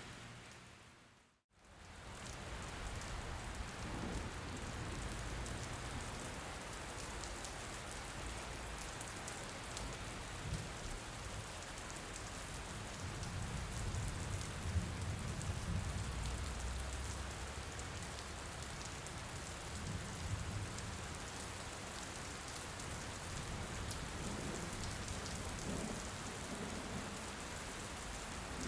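Rain falling steadily, an even hiss of drops. It fades out to a moment of silence about a second and a half in, then fades back in. A low rumble sits under it around the middle.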